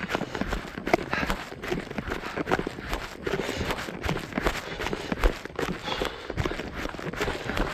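A runner's footsteps at a steady jogging pace on a mountain trail, about two to three footfalls a second.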